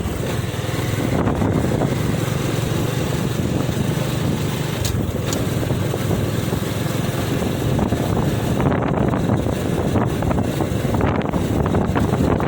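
Heavy trucks running on a road, a steady low rumble, with wind buffeting the microphone in the last few seconds.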